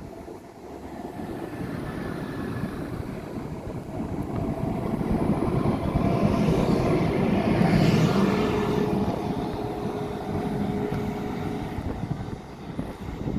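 SNCB M6 double-deck passenger train rolling past on the rails. It grows louder to a peak about seven or eight seconds in, with a faint steady whine for a couple of seconds after, then fades slowly.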